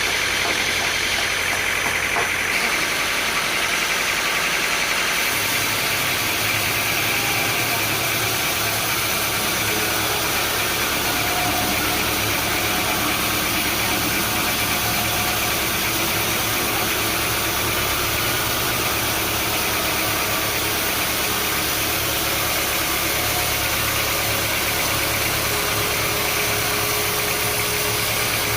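Sawmill machinery running steadily, an engine-like drone with no breaks; a lower hum joins in about five seconds in.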